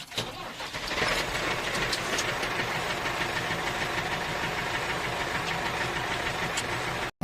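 A DIY mini toy tractor running, a steady mechanical rattle that builds up over the first second and then holds level until it cuts off.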